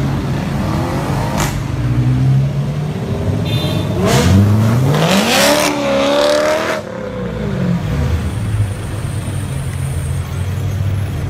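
Car engine running steadily, then revving up with a rising pitch about four seconds in. It is loudest for a couple of seconds, then drops back to a steady low idle.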